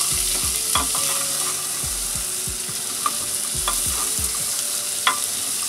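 Soaked black chickpeas sizzling in hot mustard oil and spices in a pressure cooker, stirred with a wooden spatula that scrapes the pot and knocks against it a few times.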